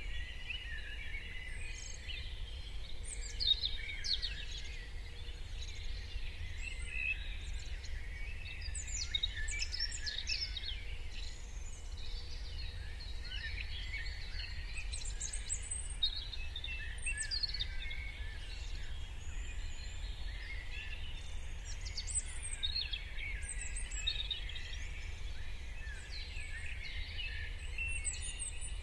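Morning chorus of many songbirds: dense, overlapping chirps, trills and short songs throughout, over a steady low rumble.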